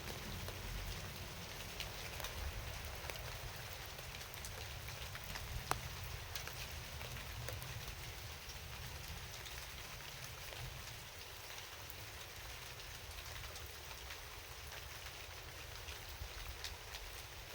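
Steady rain falling, with scattered drops tapping over an even hiss and a low rumble underneath.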